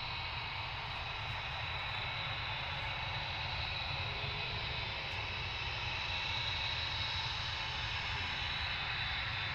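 Jet aircraft engines running: a steady rushing sound with a high whine, slowly growing louder.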